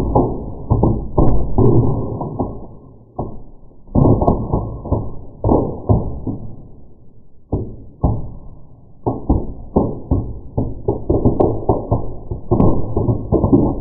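Birch bark burning in a fireplace, crackling and popping in dense irregular clusters, heard as dull knocks and thuds with brief lulls between bursts.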